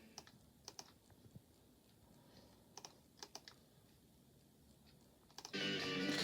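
A few faint, sharp clicks in small clusters over a low background hiss, like keys being tapped, then guitar music cutting in abruptly near the end.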